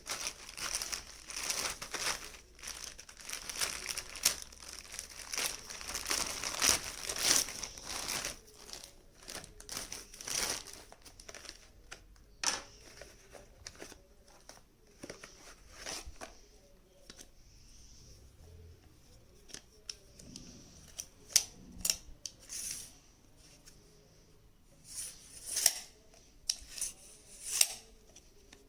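Packaging being handled and torn open: dense crinkling and tearing for about the first ten seconds, then scattered sharp clicks and short rustles.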